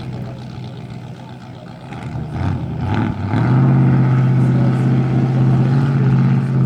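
Dirt-track race truck engines running at a steady part throttle on the cool-down lap. About three seconds in, a louder truck engine draws close and stays loud.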